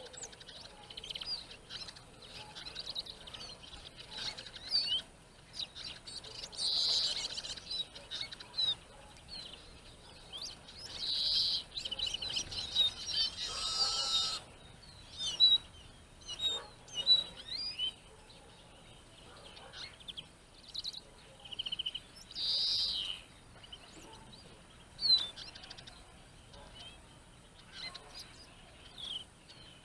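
Small finches calling outdoors: a scatter of short high chirps and several longer twittering trills, with a few sharp, louder chirps in the middle stretch.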